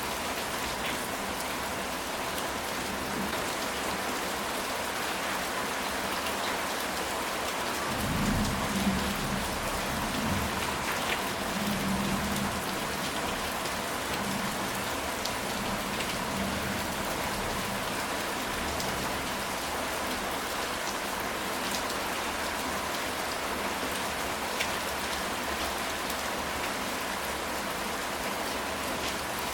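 Steady rain falling on a ceramic tile roof, a dense even patter. About eight seconds in, a low roll of thunder rumbles underneath for several seconds and fades.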